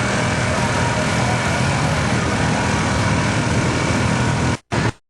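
Vehicle engine running hard and loud under a thick haze of noise. It cuts out suddenly near the end, comes back for a moment, then stops.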